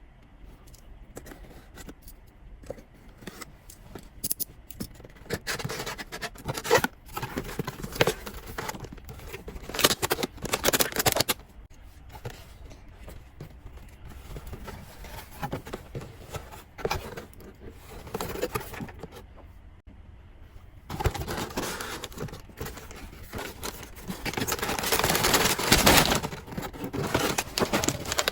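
Blind-box packaging being handled and opened by hand: scattered clicks, scrapes and rustles. Near the end there is a longer, louder stretch of rustling and crinkling.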